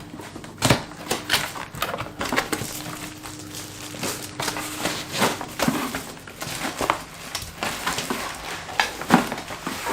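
Cardboard box and its packing being opened and handled: irregular rustling, scraping and sharp knocks as flaps and inserts are pulled apart.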